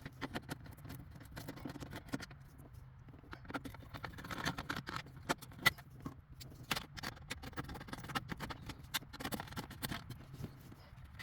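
Irregular small clicks, taps and scrapes of parts being handled and worked loose as a piece of the car's dash is taken off.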